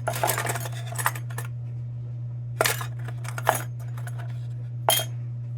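Small metal lantern parts clinking and rattling as they are sorted through in a parts box, in several short bursts of clatter, over a steady low hum.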